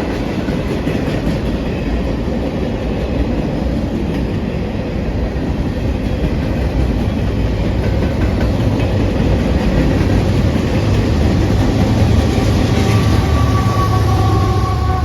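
Manifest freight train rolling past, its cars rumbling with a steady clickety-clack of wheels over rail joints, getting louder toward the end. Near the end a high, slightly falling tone joins in.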